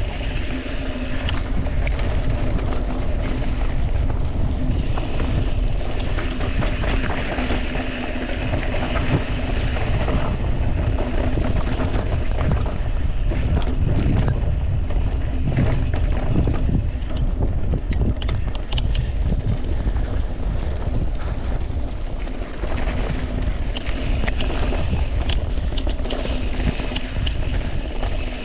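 Wind buffeting the camera microphone during a mountain bike ride, over a steady low rumble of tyres on rough trail, with scattered sharp clicks and rattles from the bike.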